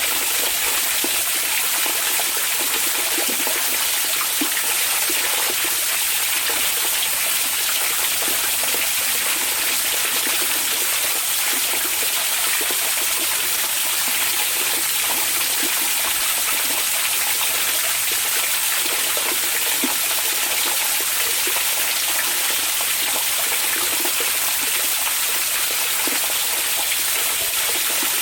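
Hot spring water flowing steadily into an onsen bath, a continuous splashing and trickling.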